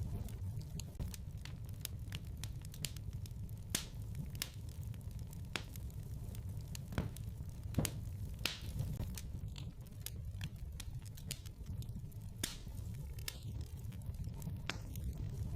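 Wood fire burning in a fireplace: irregular crackles and sharp pops over a low steady rumble.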